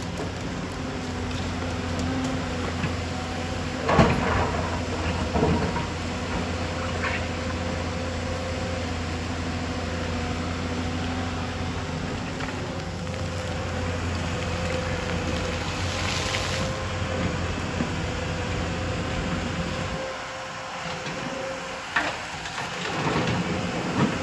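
Excavator's diesel engine running steadily, with a few sharp knocks and clanks of the machine at work, the loudest about four seconds in. The engine drone drops away a few seconds before the end.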